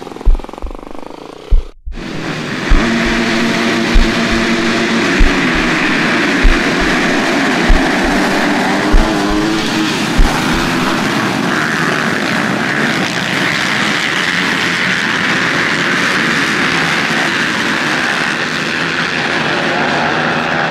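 A pack of motocross bikes running hard together: a loud, dense engine blare with several engine pitches layered in the first half. About two seconds in, the sound drops out for a moment before the loud blare begins.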